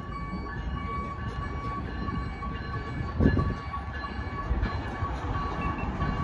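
Passenger train running along an elevated track: a steady low rumble with thin, steady high whining tones over it, and one louder thump about three seconds in.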